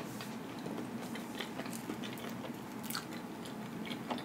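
A person chewing soft pizza with the mouth closed, with scattered small wet mouth clicks.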